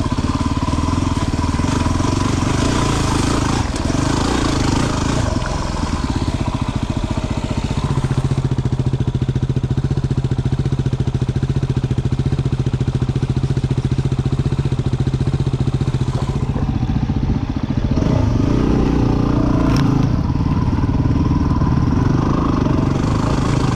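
A 250 cc single-cylinder four-stroke dual-sport motorcycle engine running under way on a trail. The engine note holds steady for several seconds in the middle and grows louder again about three-quarters of the way through.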